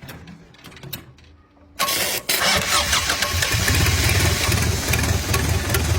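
An engine starts suddenly about two seconds in, then keeps running loud with a pulsing low rumble. A few faint clicks come before it.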